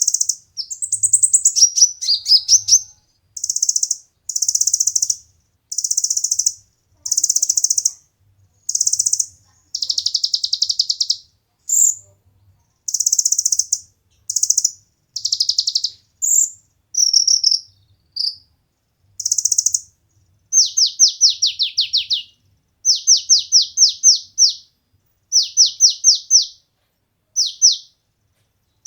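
Olive-backed sunbird (kolibri ninja) singing: high, fast chirping phrases about a second long with short gaps between them. In the last third these turn into quick runs of falling whistled notes.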